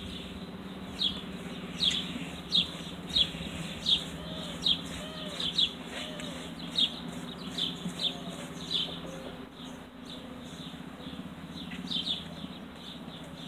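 A bird chirping over and over, short falling chirps coming every half-second to second, pausing for a couple of seconds near the end, over a steady low hum.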